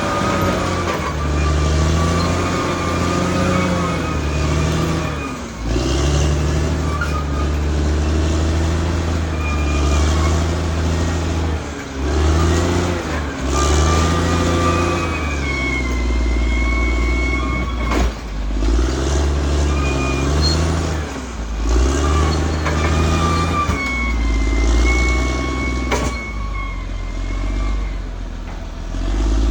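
Caterpillar D6R XL bulldozer at work: its diesel engine runs under load, the pitch dipping and picking up again every few seconds. A high whine comes and goes over it, and there are a couple of sharp metallic clanks.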